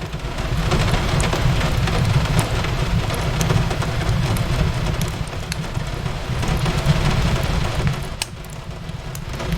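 Rain on a window with a crackling fireplace: a steady hiss of rain over a low rumble, with scattered sharp crackles from the fire. The sound dips briefly near the end.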